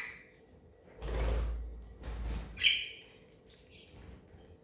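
Pet budgerigar's wings flapping in a short rush about a second in as it flies to her, followed by two short budgie chirps.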